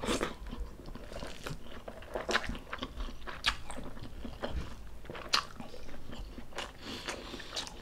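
Close-miked chewing and biting of food: irregular wet mouth clicks and crunches, several a second, with a couple of louder bites about three and a half and five and a half seconds in.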